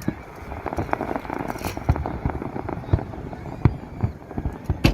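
Aerial fireworks bursting: a series of sharp booms about a second apart, the loudest near the end, with crackling between them.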